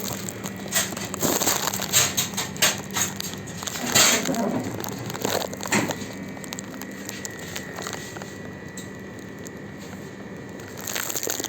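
Irregular crinkling, crackling and clicking handling noises, busiest in the first half and sparser later, over a faint steady hum.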